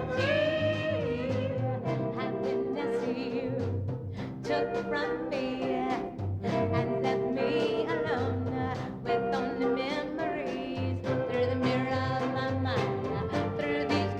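Live orchestra with a prominent brass section playing an up-tempo swing number over a pulsing bass line.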